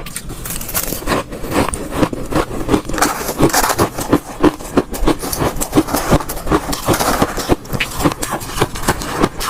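Ice cubes being crunched and chewed: rapid, irregular crackling crunches, several a second.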